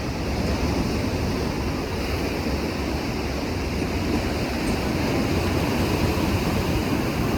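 Sea surf washing steadily on the shore, a continuous rushing noise, with wind buffeting the microphone.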